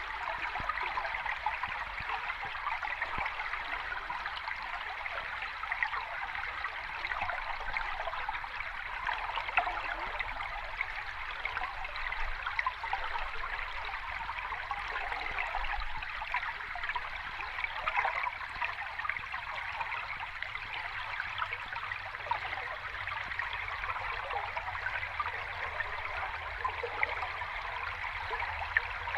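Steady rushing, bubbling water with a fine crackle of many small splashes, even throughout with no separate wave surges.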